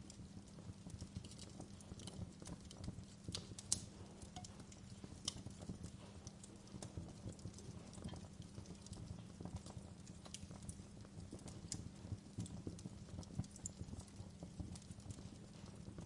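Wood fire burning, with irregular crackles and pops over a low steady rumble. One sharper pop comes a little under four seconds in.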